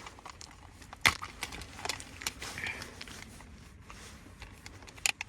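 Plastic disc case being handled and opened: a sharp click about a second in, scattered small clicks and rustling, and another sharp snap near the end.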